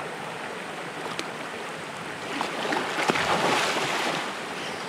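Steady rush of flowing water from a stream or river, with a louder stretch of rough, splashing-like noise and a few clicks for about two seconds near the middle.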